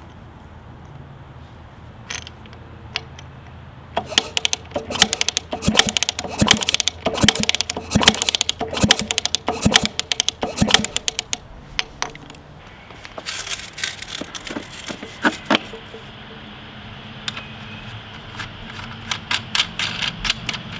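1981 Suzuki RM125 two-stroke being kicked over on its kick-starter to check for spark, a rapid mechanical clatter in two spells, the engine not firing.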